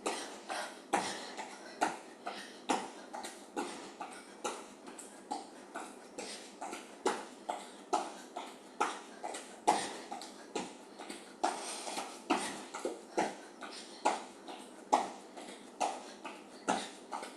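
Feet in running shoes landing on the floor during jumping jacks: a steady rhythm of soft thuds, about two landings a second with every other one louder.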